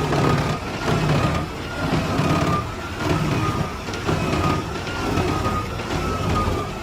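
Large forestry wood chipper running, its engine droning low and pulsing unevenly under load with a steady high whine over a noisy grinding hiss.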